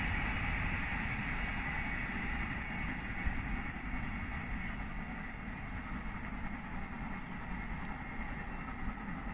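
Electric multiple-unit passenger train running along the line, its steady rolling noise fading gradually as it draws away.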